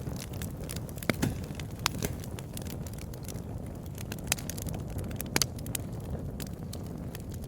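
Campfire burning with a steady low rush of flames and scattered sharp crackles and pops of burning wood, a few louder pops among them.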